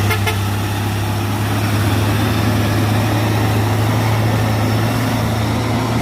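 Dump truck's diesel engine running under steady load as it climbs a steep grade, holding an even low pitch. A brief click sounds right at the start.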